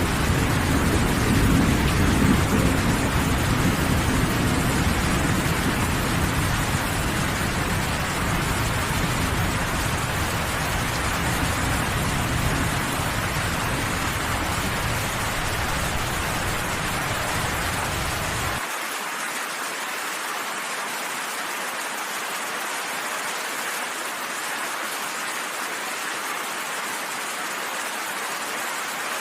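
Steady heavy rain hissing, under a deep rolling thunder rumble that is strongest in the first few seconds and slowly eases. About two-thirds of the way through, the low rumble cuts off abruptly and only the rain remains.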